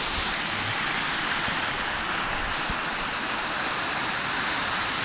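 Steady rush of water from a mountain stream pouring over the top of a waterfall.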